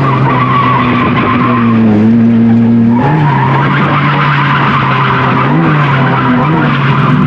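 Mazda RX-7 FC's naturally aspirated 13B rotary engine held at steady high revs through a drift, with tires skidding under it. The engine note shifts about three seconds in and blips twice near the end.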